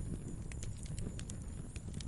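Wood fire in a fireplace crackling: a low rumble of burning with a few small, irregular pops.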